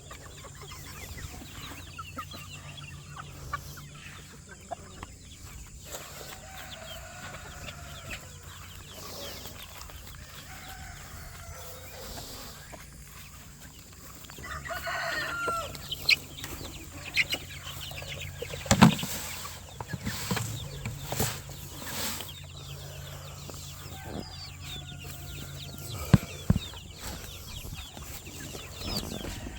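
Free-range chickens clucking throughout, with a rooster crowing and a busier burst of calls partway through. A few sharp knocks stand out as the loudest sounds, around the middle and again later on.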